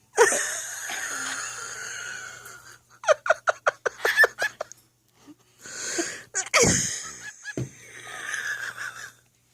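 Breathy, wheezy laughter: a long strained exhale, then a quick run of short ha-ha bursts about three seconds in, and more wheezing laughs near the end.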